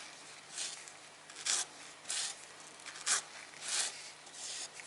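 Putty knife scraping grout into the joints of a fireplace, about six short scraping strokes, roughly one every two-thirds of a second.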